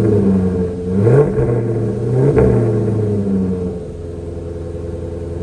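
Maserati Quattroporte GTS's 4.7-litre V8 exhaust: two short revs, about a second and two seconds in, each rising in pitch and falling back. It then settles to a steady, quieter idle.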